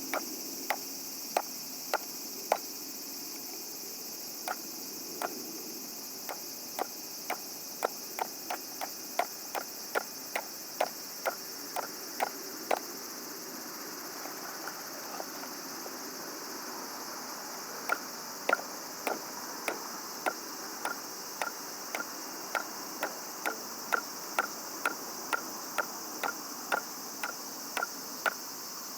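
Night insects chirring steadily, with runs of sharp ringing knocks coming about two a second: a first run early on, a pause of several seconds, then a second, more even run.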